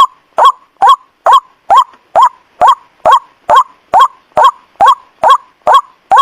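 White-breasted waterhen (ruak-ruak) lure call: short, loud, identical 'kruak' notes that bend upward in pitch, repeated at a steady even pace of a little over two a second.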